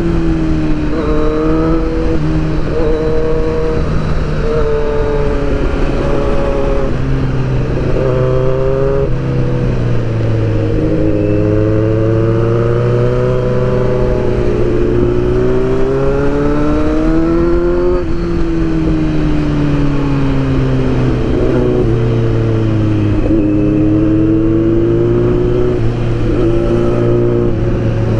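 Kawasaki inline-four sport motorcycle engine under way, its pitch climbing under throttle and dropping back again and again as the rider accelerates and eases off, over steady wind and road rush.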